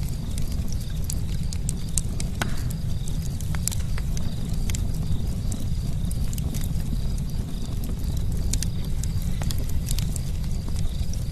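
Campfire crackling, with many sharp, irregular snaps and pops over a steady low rumble.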